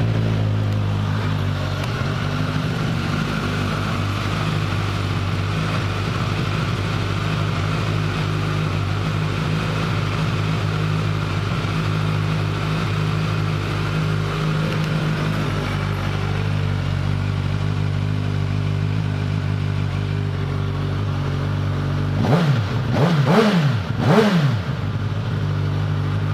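2018 Suzuki GSX-S1000Z's inline-four engine idling steadily just after starting, then revved three times in quick succession near the end, each rev rising and dropping back to idle.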